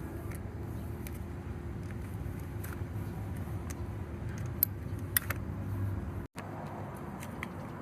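A few sharp metallic clicks and clinks of a wrench and bolts as the oil filter cover on a motorcycle engine is taken off, over a steady low hum.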